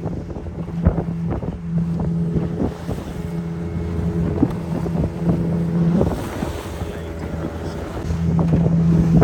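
A fishing boat's engine running steadily under way, its hum swelling and dipping. Wind buffets the microphone, and there are scattered knocks and splashes of water against the hull.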